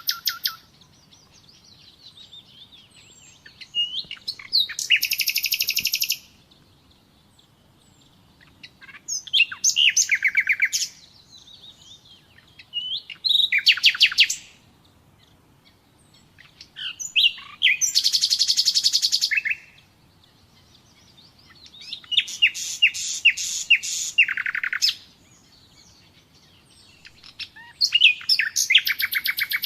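Common nightingale singing: phrases of fast repeated notes and trills, each a second or two long, separated by pauses of a few seconds.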